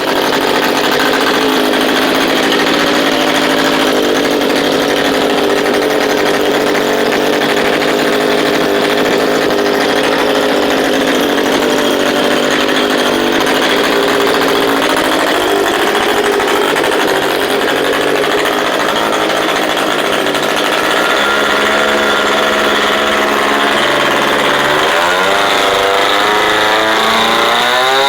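3W-150 two-stroke gasoline model-aircraft engine running at high revs on a test run. Its pitch holds steady at first, wavers in the second half, and climbs as it is throttled up near the end.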